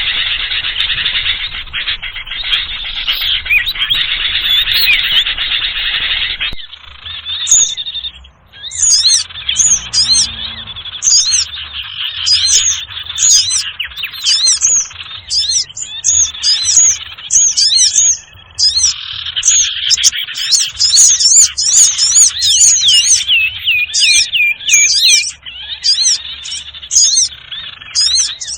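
A busy chorus of small birds chirping and calling over one another, played as a lure call for the bird called sirtu. About six seconds in the sound changes, and from then on quick high chirps repeat densely.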